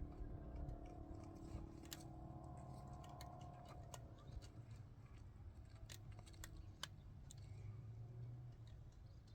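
Faint, irregular clicks and light taps, a handful spread over several seconds, over a low steady hum.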